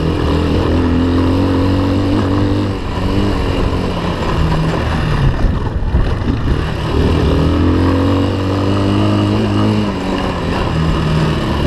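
Off-road vehicle engine running under way, revving up and easing off twice as it accelerates and slows.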